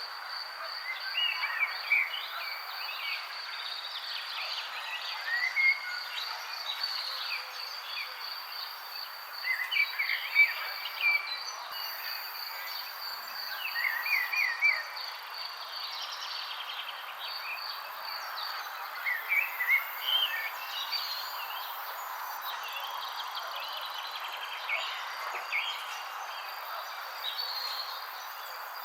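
Songbirds chirping in short, scattered bursts of quick notes over a steady, high, pulsing insect trill and a soft background hiss.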